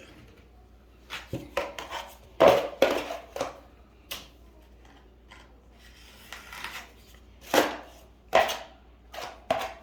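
Drywall knife working joint compound (mud), with a dozen or so short, irregular scrapes and clacks of the metal blade. The loudest come about two and a half seconds in and in a cluster near the end.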